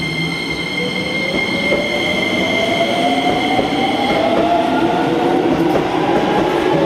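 Keisei 3000 series electric train accelerating: the inverter-driven traction motors whine in a steadily rising pitch as the train gets louder, with rail noise underneath. High steady tones from the motor drive stop about four seconds in.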